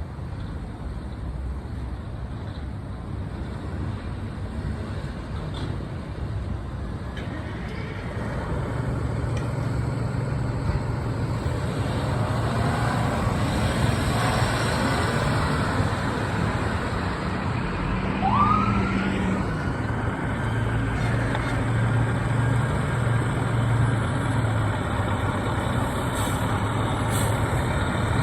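Fire apparatus's engine running, growing louder from about eight seconds in, with a short rising siren tone that levels off about two-thirds of the way through.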